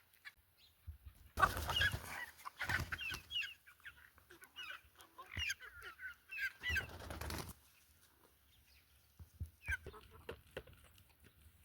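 Birds calling: a run of short, quickly bending chirps lasting about six seconds, then fainter scattered calls. Two bursts of broad rustling noise come about a second in and past the middle.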